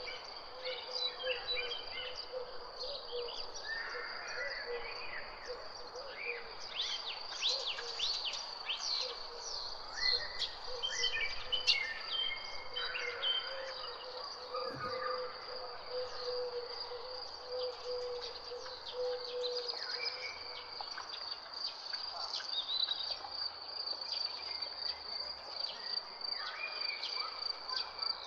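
Several birds singing and calling with quick chirps and trills over a steady high-pitched insect drone. A faint low steady hum runs beneath and stops about two-thirds of the way through.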